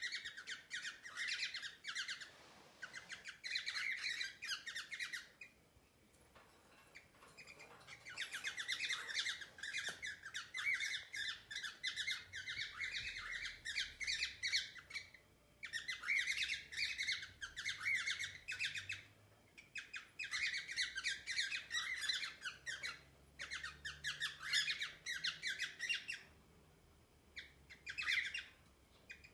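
Cockatiel calling in rapid runs of short, scratchy notes, in several bouts of a few seconds each with brief pauses between them.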